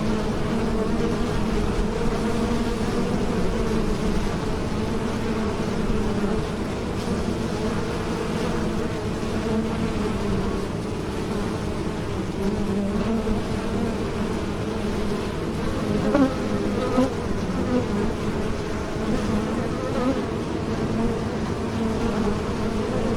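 Bees buzzing in flight: a steady, dense hum of wingbeats whose pitch wavers slightly, with a few brief higher-pitched buzzes passing about two-thirds of the way through.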